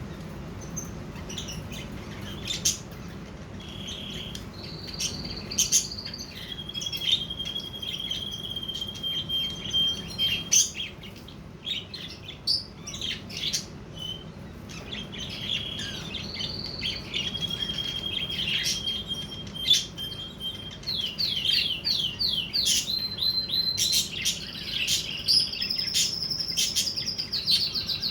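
Budgerigars chirping and warbling, the courtship chatter of a mating pair: many short sharp chirps mixed with held whistled notes, and a quick run of sliding notes about three quarters of the way through.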